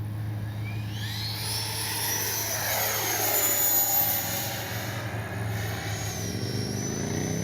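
Electric ducted-fan RC jet (80mm 12-blade fan) flying by: a high whine builds and rises in pitch from about a second in, is loudest around the middle, then drops a step in pitch and carries on. A steady low hum sits underneath throughout.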